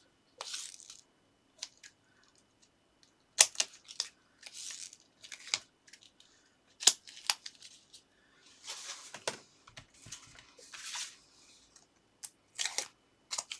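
Foam tape and card stock being handled: sharp clicks and taps, with short bursts of paper rustling as the tape is applied.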